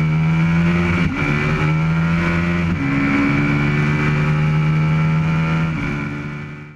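Aprilia RSV Mille's V-twin engine at full throttle, accelerating hard, with gear changes about one, three and six seconds in. The sound fades out at the end.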